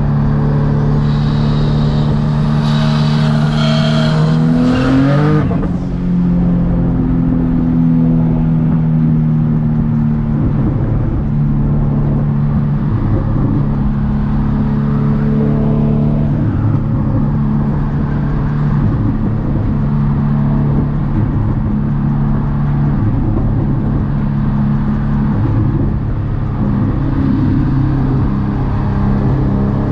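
Car engine running at steady revs with a constant drone. About four to five seconds in, the pitch rises briefly and there is a burst of hiss.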